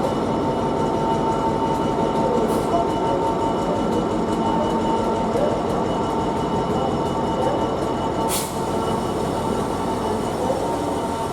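Class 66 diesel locomotive's two-stroke V12 engine running steadily and loudly while the train stands, with a steady whine over it. A short hiss sounds about eight seconds in.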